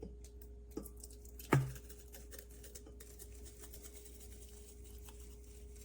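Blender pitcher being handled, with a click and then a louder knock about a second and a half in, followed by faint wet, crackly patter of a thick strawberry-and-ice smoothie being poured into a glass. A steady low hum runs underneath.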